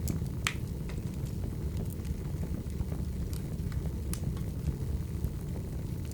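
Firewood logs burning: a steady low rush of flame with irregular sharp crackles and pops, the loudest pop about half a second in.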